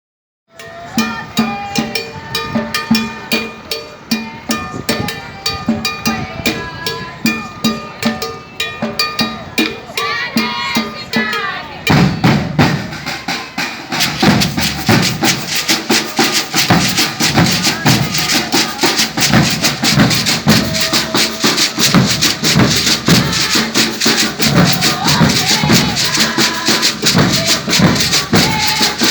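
Maracatu de baque virado percussion group playing a steady rhythm, with shakers and some ringing pitched tones. About twelve seconds in the beat grows much louder and denser as heavy low drum strokes join in.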